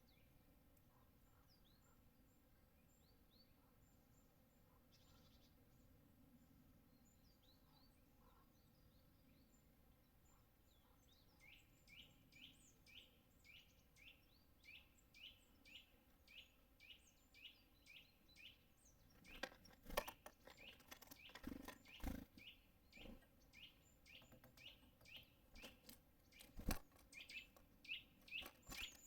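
Faint bird calls: a few scattered chirps at first, then from about a third of the way in a small bird calling over and over, about two short calls a second. Several sharp knocks come in among the calls about two-thirds through and once more near the end.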